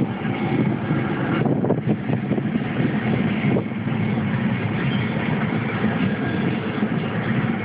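Union Pacific manifest freight train rolling past, its cars' steel wheels running on the rails in a steady, continuous rumble with a faint high ring from the wheels.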